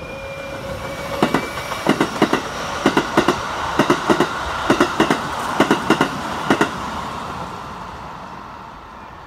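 Keikyu 1000-series six-car stainless electric train passing, its wheels clacking over rail joints in close clusters for about five seconds. A rolling rumble swells as it goes by and fades near the end.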